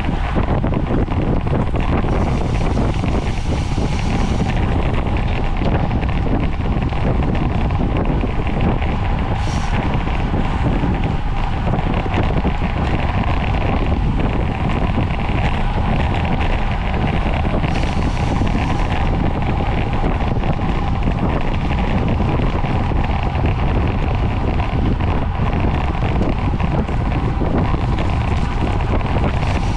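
Steady wind noise rushing over the microphone of a camera carried on a racing bicycle at speed, with a faint steady hum under it.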